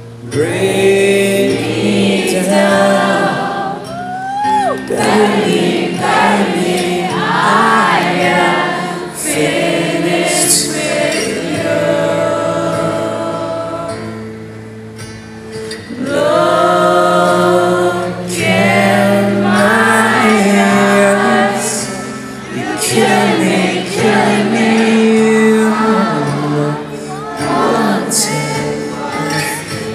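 Live rock concert music: sung lines, with many voices together, over sustained keyboard chords. The music dips briefly about halfway through, then comes back in full.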